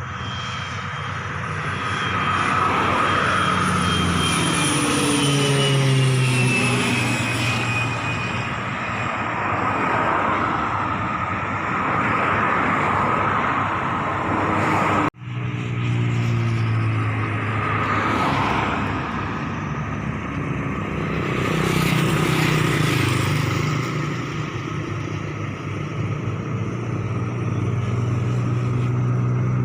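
Pilatus PC-7 Mk II turboprop trainer flying past on its landing approach, its engine and propeller droning with a high whine that falls in pitch as it goes by. The sound breaks off abruptly about halfway, then picks up again with another aircraft pass.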